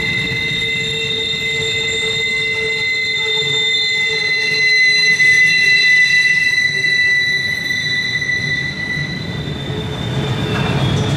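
Cars of a long CSX intermodal freight train rolling past, the cars mostly empty, with a steady high-pitched ringing wheel squeal over the rumble of the wheels. The squeal fades away near the end.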